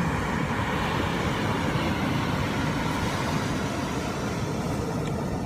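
Steady low rumble and hiss of a moving vehicle.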